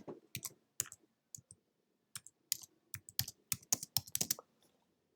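Irregular run of sharp clicks and taps, densest from about two to four and a half seconds in.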